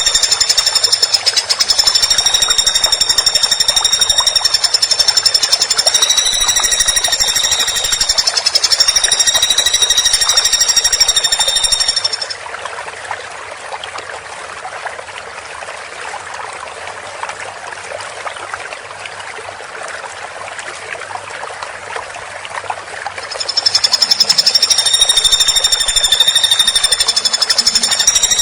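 Woodpecker calling in a long, very fast, high-pitched trilling rattle. It drops to a fainter rattle about twelve seconds in and comes back loud near the end.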